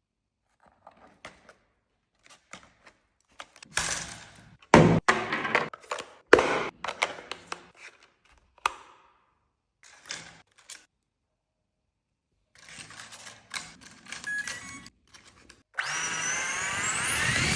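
Unboxing handling noises: knocks, clicks and rustles of plastic parts and packaging, loudest in two sharp thunks about five and six and a half seconds in. Near the end a small electric motor starts with a whine that rises in pitch as it spins up.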